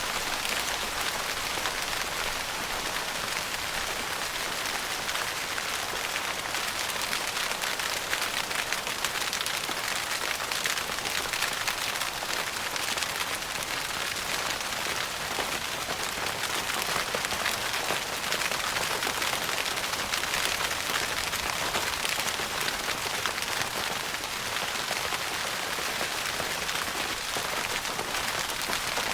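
Rain falling steadily on a tent's fabric roof: a dense, even pattering of countless drops that holds steady.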